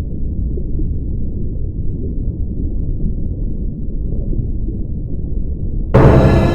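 A steady low rumble of background sound effects, then about six seconds in a sudden loud dramatic music sting of sustained pitched tones.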